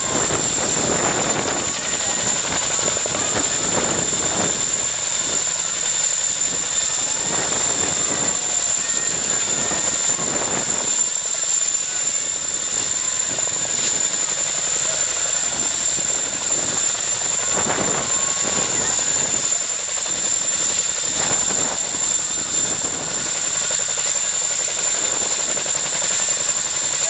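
Helicopter running steadily: a constant rushing noise with a steady high-pitched whine over it.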